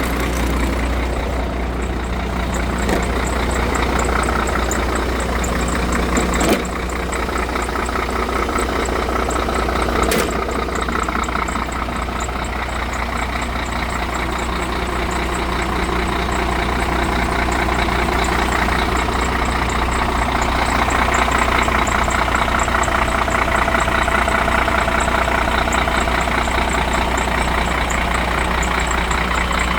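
Scania P114's DC11 11-litre straight-six diesel (380 hp) idling steadily. A sharp click comes about six and a half seconds in, and another about ten seconds in.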